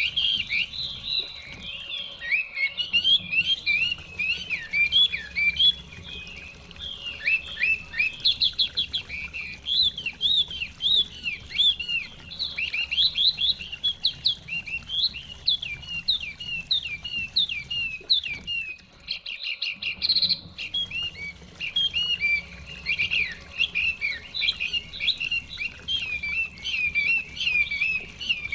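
Hwamei (Chinese hwamei songbird) singing a long, continuous run of rapid, varied whistled phrases.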